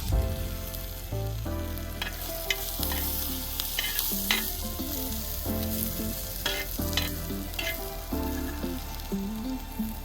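Food sizzling and frying in a hot pan, with a steady hiss and a few sharp crackles.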